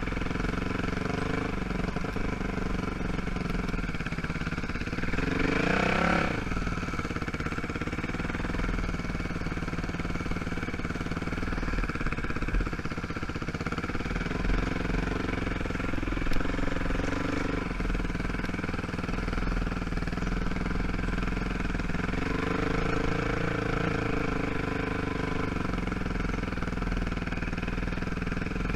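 ATV (quad) engine running at low trail speed. Its pitch rises in a brief burst of throttle about a fifth of the way in, then shifts again with smaller throttle changes later, with a few light knocks near the middle.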